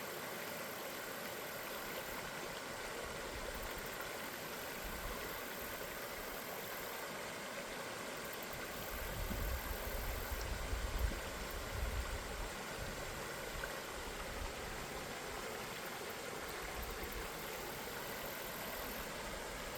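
River water running in a steady, even rush, with a low rumble swelling for a few seconds about halfway through.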